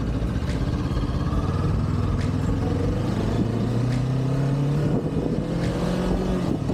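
Kawasaki Ninja 400's parallel-twin engine pulling through stock exhaust while under way, its pitch climbing gradually, with wind rushing over the microphone.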